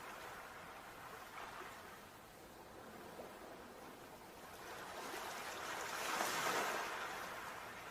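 Sea waves washing on the shore: the rush of one wave fades away, then the next builds and breaks about six seconds in before starting to ebb.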